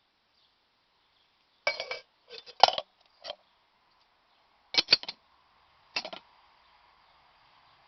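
Light metal clinks and knocks from the Alocs CW-K02 camping kettle being handled, in five short clusters, the last leaving a faint ring.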